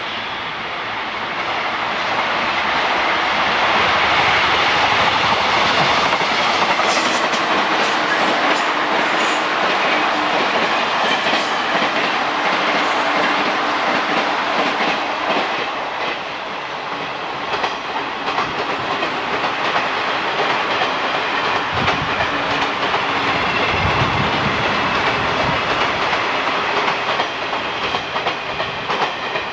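A train running past, its wheels clacking over the rail joints. The sound builds over the first few seconds, then stays at a steady level.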